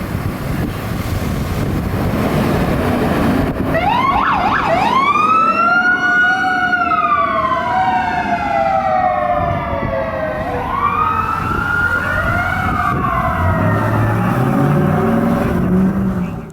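Fire apparatus sirens on an emergency response. After a few seconds of steady road and wind rumble, a siren starts with a quick rapid warble, then runs into long rising and slowly falling wails, with more than one siren tone overlapping. Low deeper tones come in near the end, and the sound cuts off suddenly.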